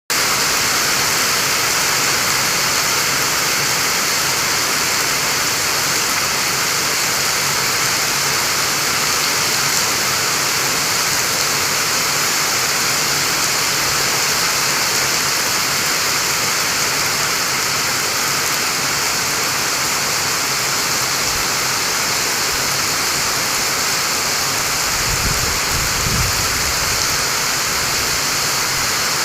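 Torrential rain pouring down steadily as a dense, even hiss. A brief low rumble sounds near the end.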